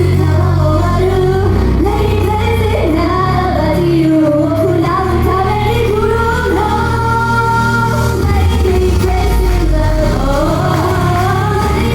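Female vocals singing a pop song over a loud backing track with a steady bass line, played through a stage sound system.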